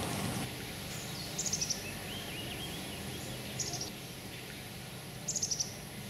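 Outdoor birdsong over a steady low background noise: a bird gives a short rapid series of high notes three times, about two seconds apart, with lower arched calls in between. A louder rushing noise dies away in the first half second.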